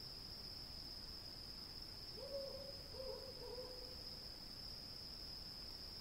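An owl hoots twice about two seconds in, the second hoot longer, over crickets chirping in a steady high trill.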